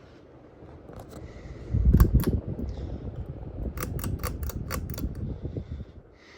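Hunter Beacon Hill ceiling fan running, with a low rush of moving air that swells loudest about two seconds in. A few sharp clicks come first, then a run of about four clicks a second in the second half.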